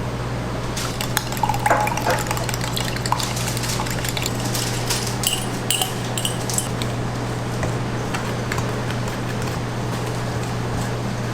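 Kitchen prep sounds: scattered light clinks and knocks of utensils and dishes over a steady low hum.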